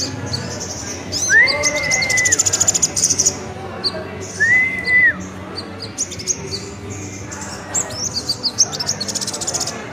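Kolibri ninja (a sunbird) chattering: rapid, high, thin twitters and fast trills in busy runs with short pauses. Two longer, lower, clear whistled notes come about one and four seconds in.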